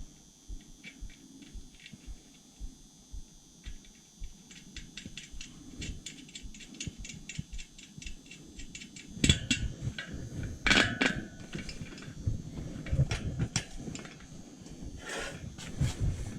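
Hand tools at work on a dirt bike's rear wheel and tire: a run of quick, even clicks, then louder knocks and scraping from about halfway through.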